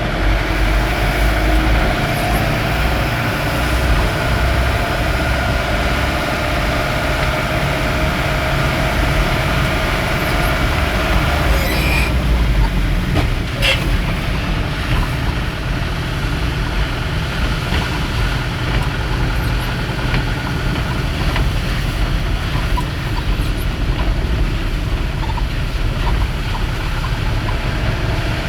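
A vehicle driving in heavy rain: a steady low engine and road rumble under a haze of rain noise. About halfway through there are two short sharp clicks.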